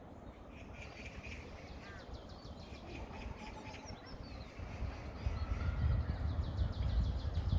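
Small birds chirping and calling in short notes, with a low rumble that grows louder about five seconds in.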